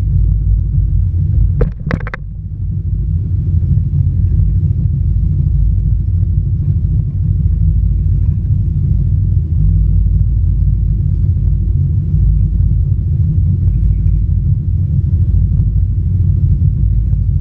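Steady low rumble of a moving jet ski on the camera microphone, engine and wind together, with a few sharp clicks about two seconds in.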